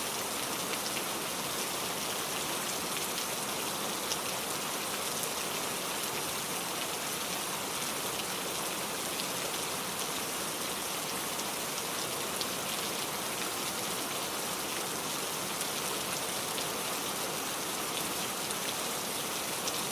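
Steady rainfall, with scattered drops ticking on a surface.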